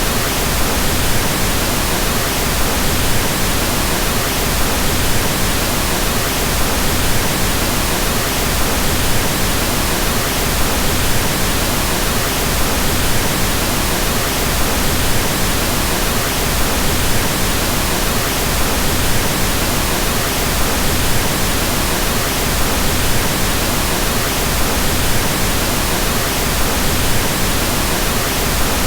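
Pink noise: a steady, even hiss, deeper and softer than white noise because its lower frequencies carry more energy.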